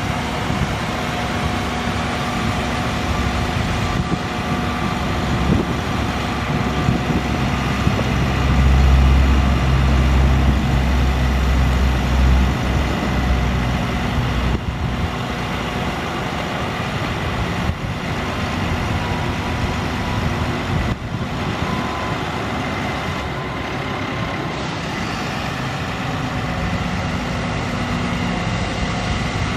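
International DT466 diesel engine of a truck running steadily, with its low rumble swelling louder for about four seconds near the middle, then settling back.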